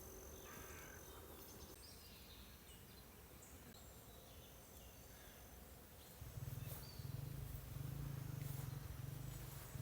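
Quiet outdoor ambience with faint bird chirps. About six seconds in, a low, fluttering rumble starts and continues.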